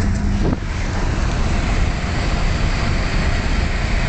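Steady rushing noise inside a car driving on a wet road: tyre and road noise with wind, and a strong low rumble on the phone's microphone.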